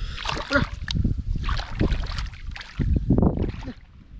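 Splashing and sloshing in shallow rice-field water as fish are grabbed by hand, in irregular bursts that die down near the end.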